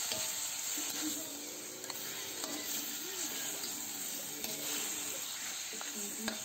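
Soy-marinated pork pieces sizzling steadily in hot oil in a stainless steel wok while being sautéed. A metal spatula scrapes and clicks against the pan a few times as the meat is stirred.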